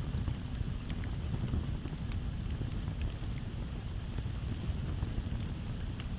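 Campfire crackling, with scattered sharp pops over a low steady rush of breeze. A steady cricket trill runs in the background.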